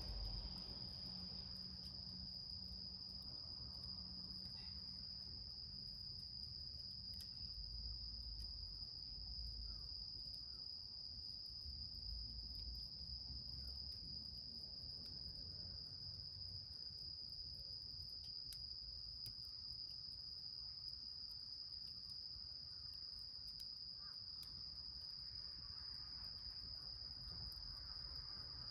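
Crickets trilling in one steady, unbroken high note, with faint scattered ticks underneath.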